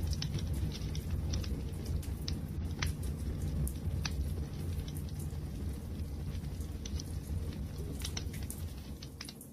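Wood fire burning: irregular sharp crackles and pops over a steady low rumble of flames, easing off a little near the end.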